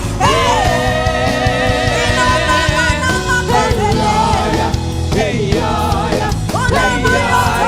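Gospel worship music: a solo voice holding long, wavering sung notes over a full band accompaniment.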